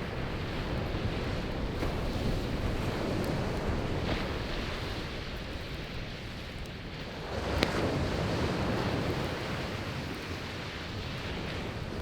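Sea waves breaking and washing up the shore, swelling again a little past halfway, with a wood campfire crackling faintly and one sharp pop as the wave rises.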